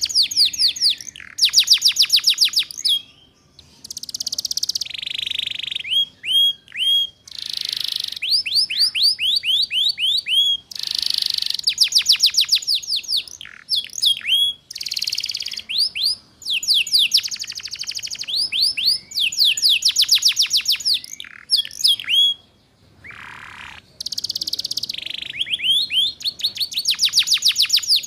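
Domestic canary singing in fast trills of rapidly repeated down-sweeping notes, grouped in phrases a second or two long and broken by short pauses and brief buzzy passages. This is the rapid chattering style that canary keepers call ngeriwik.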